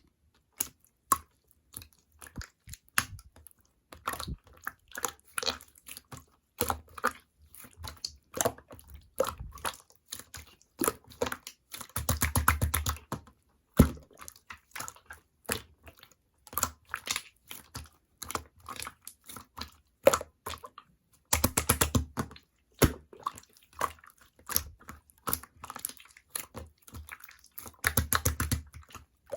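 Clear slime being squished and pressed by hand, giving a steady run of sticky clicks and small pops, with three bursts of rapid crackling near the middle and end.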